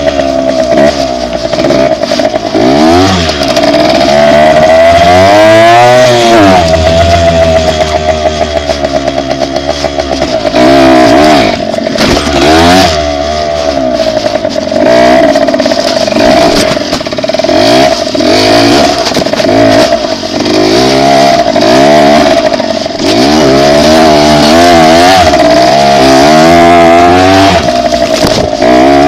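Dirt bike engine being ridden, loud and close, its pitch rising and falling again and again as the throttle is opened and eased off through the gears.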